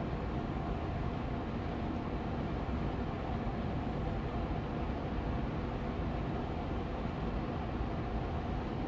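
Austin Air Allergy Machine air purifier fan running steadily on medium speed: an even rush of air with a faint hum.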